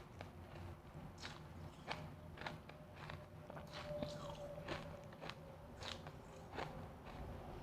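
Refrozen powdery freezer ice being bitten and chewed close to the microphone: irregular crisp crunches, about two a second.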